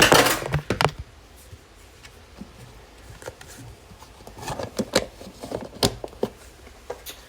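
Kitchen items being handled on a bench: a loud clatter and rustle at the start, then a scatter of sharp clicks and knocks a few seconds later.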